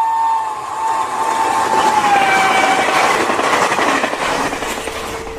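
A train passing at speed: a rushing clatter of wheels on rails, loudest about two to four seconds in and easing after, with a whining tone that slides down in pitch over the first three seconds.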